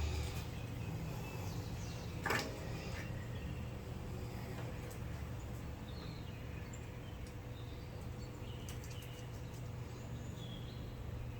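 Faint bird chirps over a steady low hum, with a single sharp click about two seconds in.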